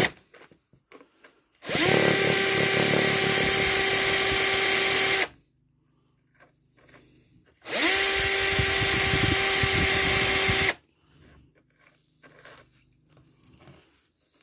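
Electric drill run in two bursts of about three and a half and three seconds, each spinning up quickly to a steady speed with a steady whine, then stopping. Light handling clicks follow near the end.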